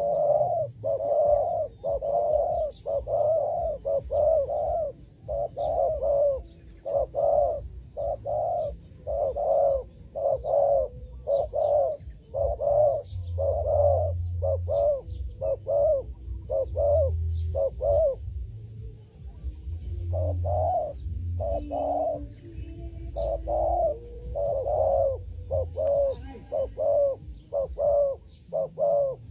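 Spotted doves cooing over and over in short repeated coos, with a couple of brief pauses: the territorial calling-back of a decoy dove and wild doves. Faint chirps of small birds sound above, and a low rumble comes and goes.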